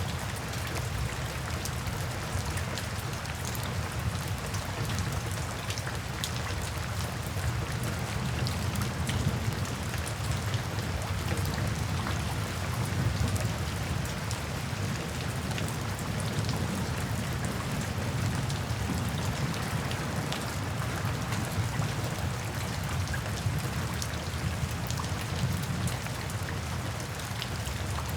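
Steady rain falling, with scattered drop ticks and a continuous low rumble underneath.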